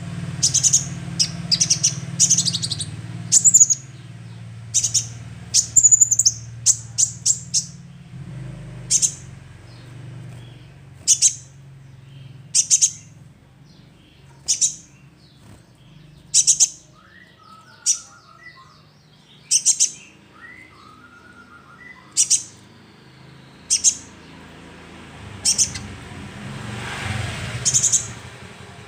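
Young sunbird calling with sharp, very high chips: quick runs of them over the first several seconds, then single chips about every one and a half seconds.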